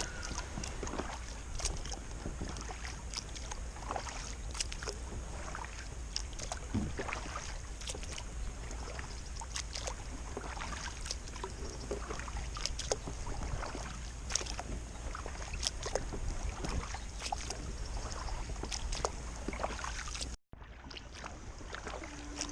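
A 10-foot sit-on-top kayak being paddled on calm water: irregular small splashes and drips from the paddle blades, with light knocks, over a steady low rumble.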